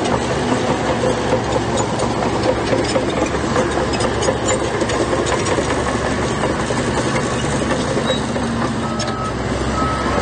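Heavy diesel construction machinery running steadily, with a low engine hum and a constant clatter. A few short, evenly spaced beeps come in near the end.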